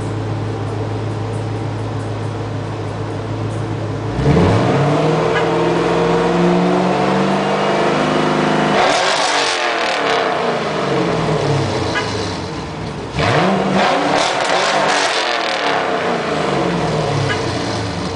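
Chevrolet Camaro SS V8 through a Loudmouth exhaust, idling and then revved twice: a sudden rev about four seconds in, with the engine note climbing for several seconds before falling away, and a second sharp rev near the middle that drops back toward idle near the end.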